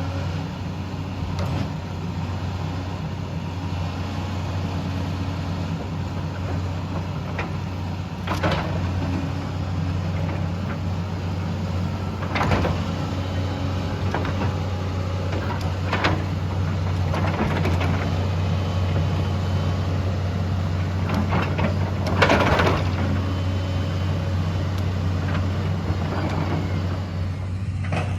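Excavator's diesel engine working steadily under load, with sharp cracks and knocks every few seconds, the loudest about 22 seconds in: a big tree being pushed over and its roots and wood breaking.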